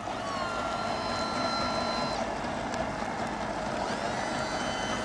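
Small motorboat running steadily under way, an even engine-and-water noise with a thin steady whine over it in the first half.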